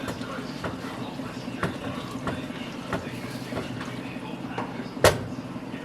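A steady low mechanical hum with scattered light clicks, and one sharp knock about five seconds in.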